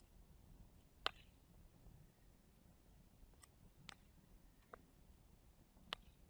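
Wood fire crackling softly: a handful of sharp, scattered pops, the loudest about a second in, over a faint low rumble.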